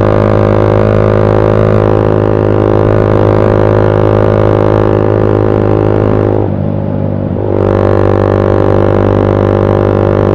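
Motorcycle with a custom-made aftermarket exhaust droning very loudly at steady cruising revs. It briefly eases off about six and a half seconds in, then comes back to the same steady note.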